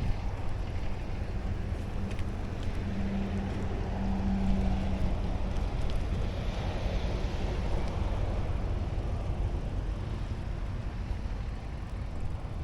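Wind buffeting the microphone of a camera on a moving bicycle, over steady tyre and riding noise, with a faint steady hum for a few seconds in the middle.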